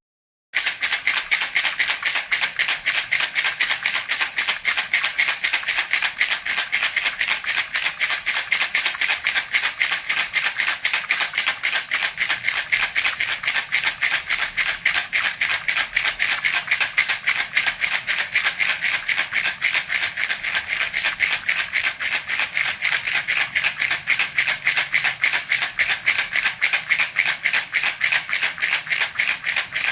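Toy baby rattle (jhunjhuna) shaken steadily and quickly, a continuous run of bright rattling strokes, several a second, starting after a brief silence.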